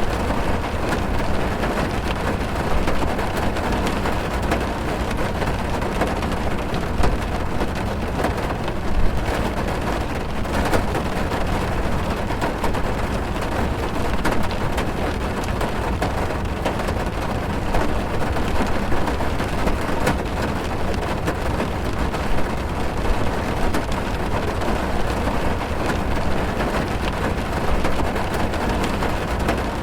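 Heavy rain on a car, heard from inside the cabin: a steady, dense patter of many small drop ticks over a constant low rumble.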